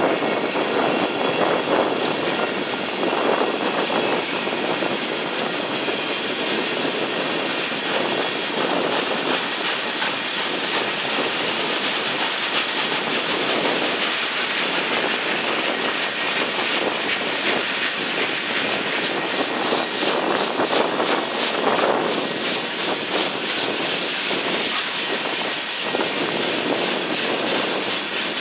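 Freight cars of a passing freight train rolling by: a steady rush of steel wheels on rail, with repeated clacks as the wheels cross rail joints.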